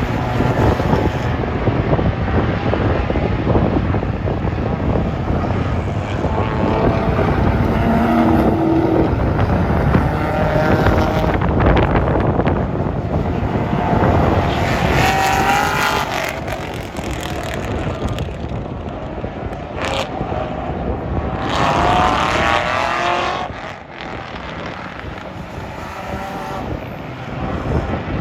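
Race car engines running on the track, their pitch rising and falling as the cars rev and accelerate, with clear rising engine notes about halfway through and again past the two-thirds mark.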